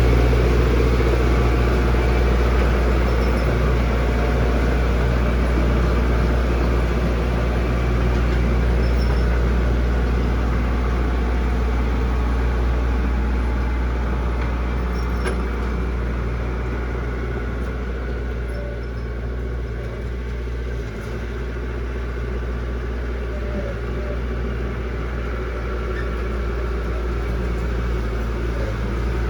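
Heavy diesel engine of road-construction machinery running steadily with a deep drone, easing slightly about two-thirds of the way through.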